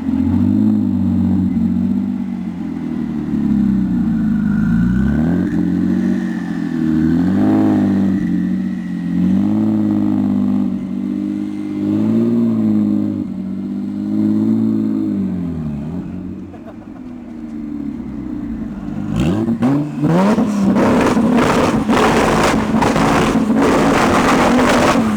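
Modified Porsche 996 Turbo's twin-turbo flat-six revved repeatedly, its pitch rising and falling with each blip. About 19 s in it is held at high revs with a rapid run of sharp exhaust pops and cracks, the backfires that send flames from the exhaust, then drops back near the end.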